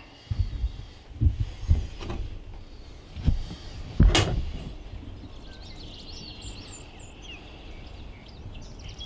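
Handling noises in a hunting blind: several dull bumps and knocks, then one loud sharp scrape about four seconds in. Small birds chirp faintly in the second half.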